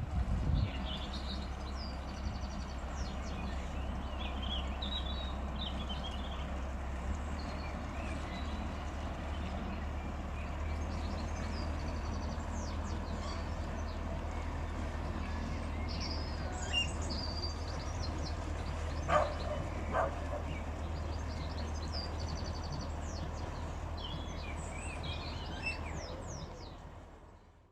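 Small birds chirping and singing on and off over a steady low hum, with two short sharp sounds about nineteen and twenty seconds in.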